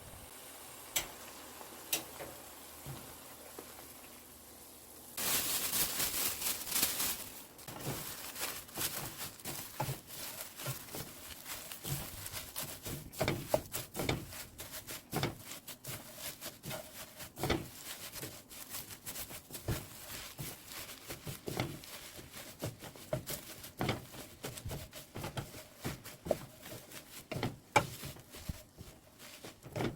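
Laver seaweed being stir-fried in a pan: a loud sizzle about five seconds in, then irregular scraping and tapping of a cooking utensil as the seaweed is tossed and stirred.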